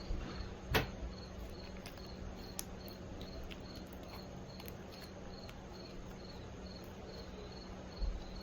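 A cricket chirping in the background, short high chirps about two to three a second, over a faint steady low hum, with a single sharp click about a second in.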